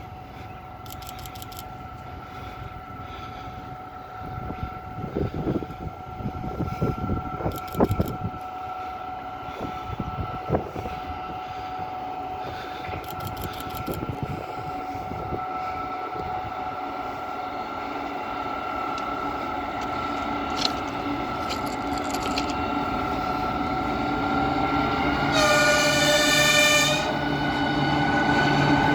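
2TE116 twin-unit diesel freight locomotive approaching, its engine rumble and a steady high whine growing steadily louder, with a short blast of its horn a few seconds before the end.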